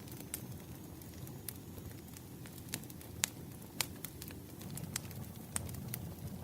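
Firewood burning: a steady low rumble of flames with scattered sharp crackles and pops, the loudest about three and four seconds in.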